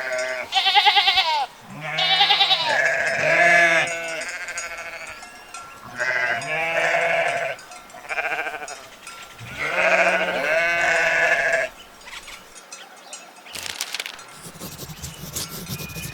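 Sheep bleating repeatedly: about six loud, quavering bleats in the first twelve seconds, then quieter.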